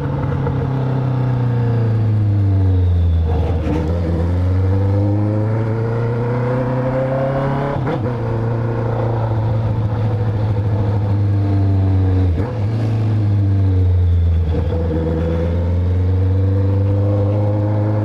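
Honda CB650F inline-four engine running loud through an Atalla full stainless-steel exhaust while riding, its pitch rising and falling with the throttle, with a few brief breaks between pulls.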